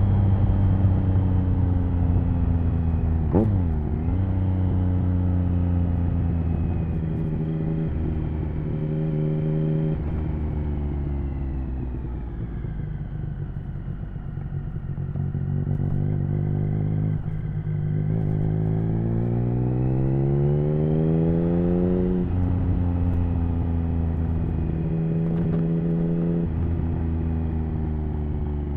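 Triumph Speed Triple 1050's inline-three engine on the move through an HP Corse Hydroform aftermarket exhaust. There is a brief sharp rev a few seconds in. The pitch falls as the bike slows around the middle, then climbs under acceleration to an upshift about two-thirds of the way through, and the engine runs steadily after that.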